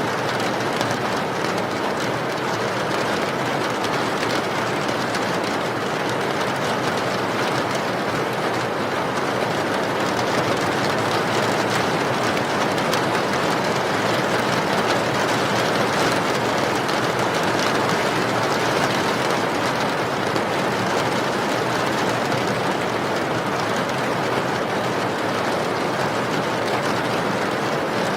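Steady rain, an even unbroken hiss with no changes or distinct drops standing out.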